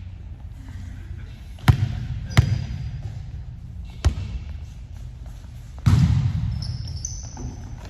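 Volleyball being played: three sharp slaps of hands on the ball, two close together about a second and a half in and another near four seconds, then a louder hit with a rush of noise about six seconds in, followed by sneakers squeaking on the court floor.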